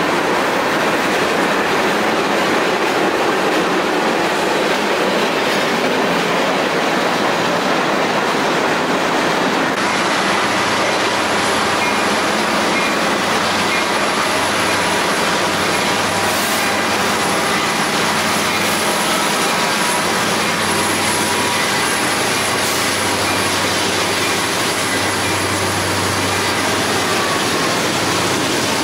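A train rolling past with a steady rumble of steel wheels on the rails. From about ten seconds in, a thin, high wheel squeal runs over it.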